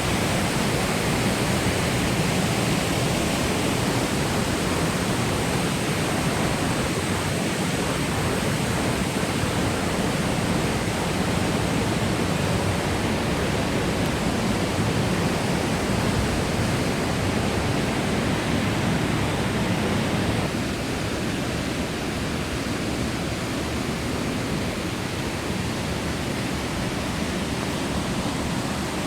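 Kozjak waterfall's water falling and rushing as a steady, dense noise. It dips slightly in level about two-thirds of the way through.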